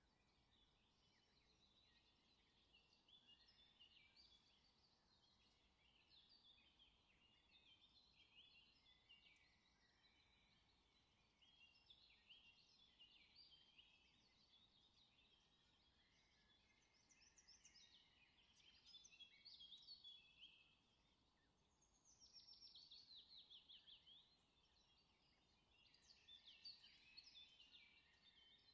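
Very faint birdsong: small birds chirping on and off, with a rapid trill of falling notes about two-thirds of the way through.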